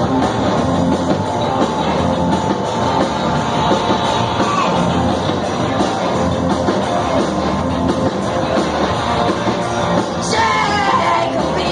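Live rock band playing loudly with a singer, drums, bass and guitars.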